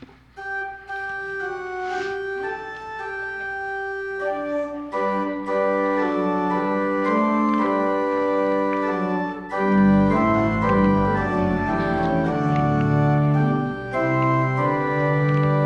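Church organ playing the introduction to a hymn in held, sustained notes: a thin upper line at first, fuller chords joining about four seconds in, and deep bass notes entering near the ten-second mark.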